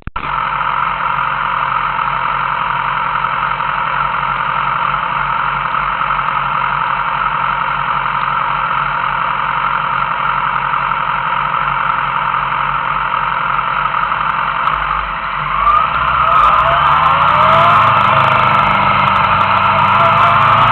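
Motorcycle engine running steadily, then revving up with rising pitch from about 16 seconds in.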